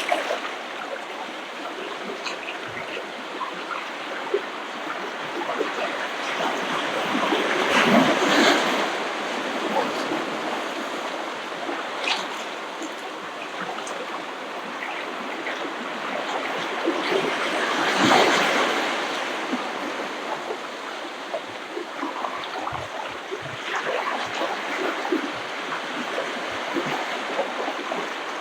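Ocean waves washing onto a beach, a continuous wash of surf that swells as waves break, loudest about eight seconds in and again about ten seconds later, with a smaller wave near the end.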